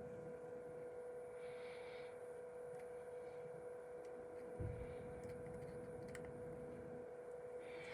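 Faint steady hum with a single soft knock about four and a half seconds in, and a couple of brief soft hisses.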